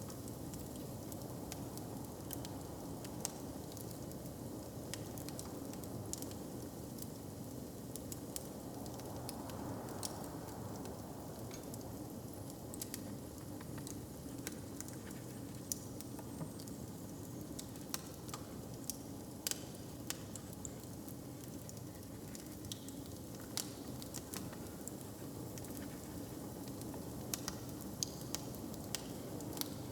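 Hearth fire crackling: irregular sharp pops and snaps, denser near the end, over a steady low rumble.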